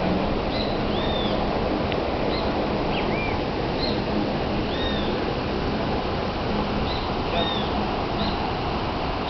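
Steady rushing water of a waterfall, with a bird repeating short, arched whistled notes about once a second over it.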